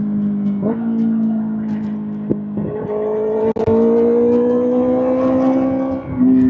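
Kawasaki ZX-6R inline-four running through an SC-Project SC-1R aftermarket exhaust at steady high revs, its note briefly dipping a couple of times and then climbing slowly in pitch.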